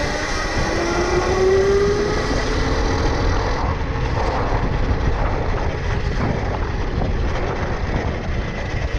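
Tuttio Soleil 1 electric dirt bike's motor whining, rising in pitch over the first three seconds as the bike speeds up, then fading into a strong low rushing noise of riding.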